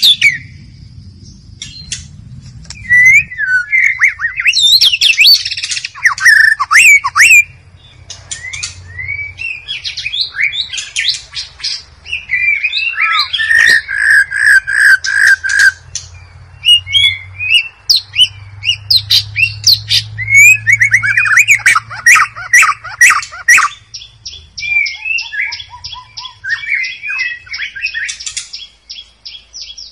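White-rumped shama (murai batu) singing: a long run of loud, varied whistled phrases with sliding notes, fast trills and rattling notes, and a fast even series of high notes near the end.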